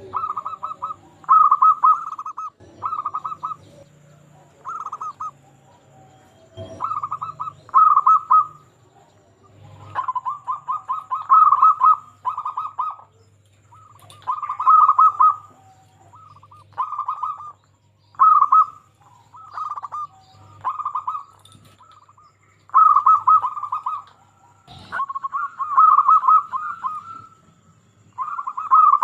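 Male zebra doves (perkutut) cooing: repeated short, rapidly pulsing trilled coos in phrases of one to four, with short pauses between. This is the gacor song that is played to draw quiet perkutut into singing.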